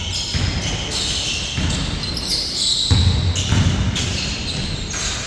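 Basketball bouncing on the court during a game, several low thuds with the heaviest about three seconds in, over a busy layer of game noise.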